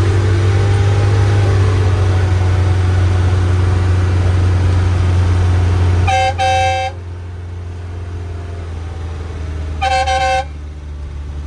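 Bus engine running with a steady low hum that drops in level about six seconds in. A vehicle horn toots twice in quick succession there and once more about four seconds later.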